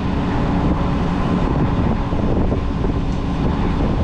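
A semi truck's diesel engine running steadily with the PTO engaged, driving the oil pump while the tanker unloads road oil. It makes a constant loud hum with a steady low tone.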